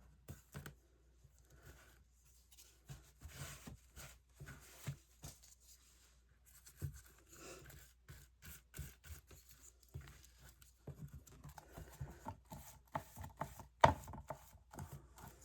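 Pieces of collage paper being handled and pressed down by hand: scattered short rustles, rubs and light taps.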